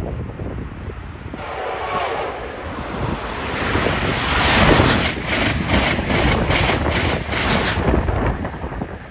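Amtrak Acela Express trainset passing at speed: a rising rush of wheel and air noise that peaks about halfway through, then a quick, even run of pulses as the cars go by, easing off near the end.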